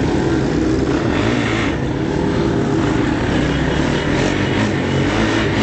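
Motorbike engines running under way at a steady pitch.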